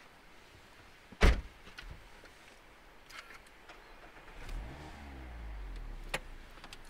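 A car door shuts with a loud thump about a second in. A few seconds later the Mazda ND Roadster's four-cylinder engine starts: its pitch rises briefly, then settles into a steady low idle, with a small click near the end.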